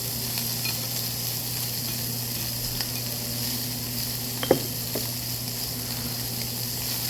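Meat sizzling steadily on a tabletop grill, with one short sharp knock about four and a half seconds in.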